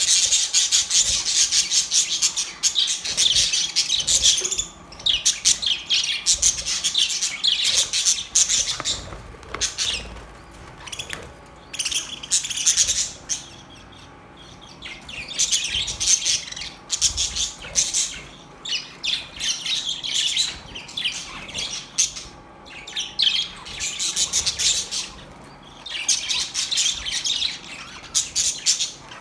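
A colony of budgerigars chattering and warbling together, with rapid high chirps and squawks in bouts of a few seconds broken by short lulls.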